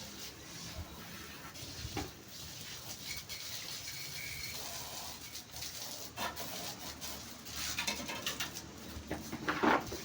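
A bird cooing against faint background noise and scattered clicks.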